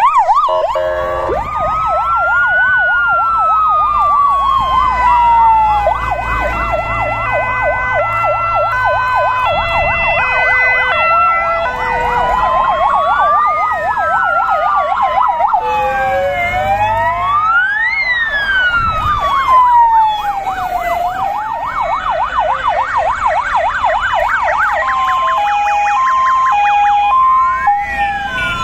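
Sirens of several fire engines in a passing convoy sounding at once. Fast yelping warbles, slow rising and falling wails and stepped two-tone hi-lo horns overlap, over a low engine rumble.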